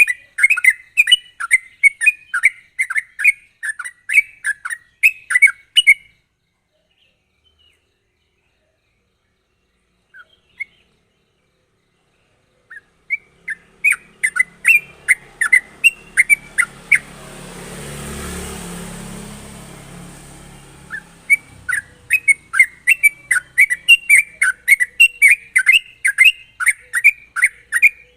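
Yellow-vented bulbul (trucukan) singing continuously in quick runs of sharp chirps, about three notes a second. The song breaks off for several seconds about six seconds in, then resumes. In the middle a rushing noise with a low rumble swells and fades under the song.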